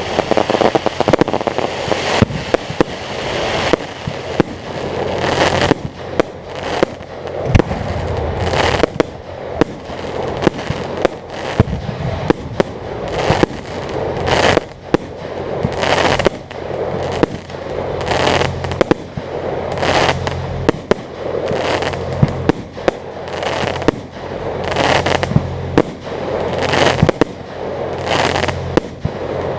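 Fireworks display: a continuous barrage of aerial shell bursts, sharp bangs coming every second or so over steady crackling.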